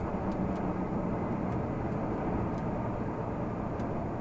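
Renault Magnum 480 truck's straight-six diesel running steadily under way, a low, even rumble with road noise.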